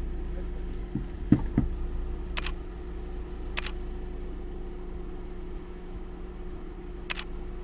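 4x4 vehicle engine idling steadily, with a few knocks about a second in and several short, sharp clicks.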